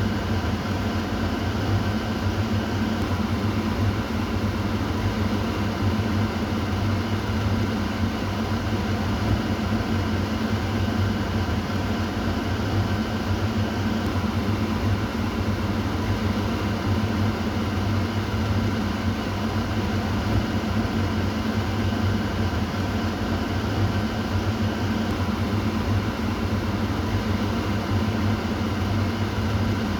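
Kitchen exhaust fan running steadily, a constant hum with a low drone and an even whooshing hiss of moving air.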